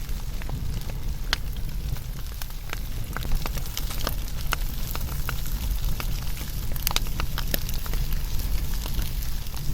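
Wood fire burning, with a steady low rumble of flame and sharp crackles and pops scattered irregularly, several a second.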